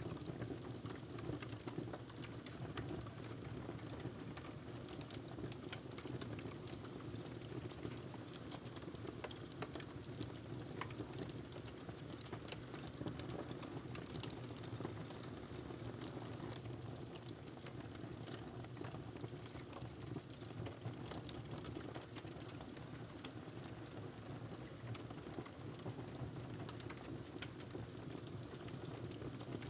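Wood fire crackling in a fireplace: a steady low rumble of flames with many small, irregular pops and snaps.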